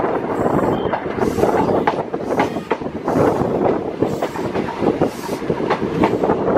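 Passenger train coach running into a station, heard from an open window beside the wheels: a steady rumble with irregular clicks and clatter as the wheels pass over rail joints and pointwork.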